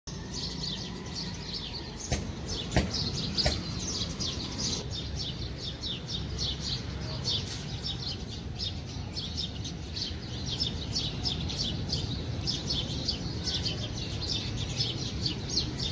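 Many small birds chirping continuously over a steady low background rumble, with a few sharp knocks about two to three and a half seconds in.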